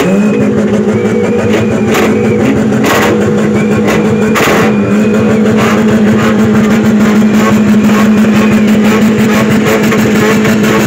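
Car engine revved hard and held at high revs while the car stands still, its note steady at one pitch, with sharp cracks over it, the loudest about three and four and a half seconds in.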